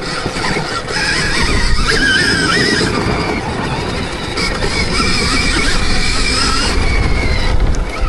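Stark Varg electric motocross bike's motor whining, rising and falling in pitch as the rider works the throttle, over heavy wind rumble.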